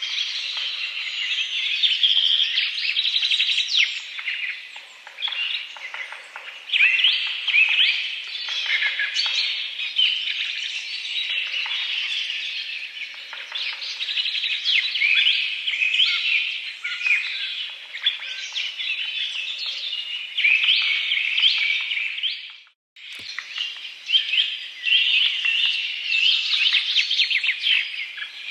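A dense chorus of small birds chirping and twittering, many short calls overlapping. The sound cuts out for a split second about three-quarters of the way through, then the chorus resumes.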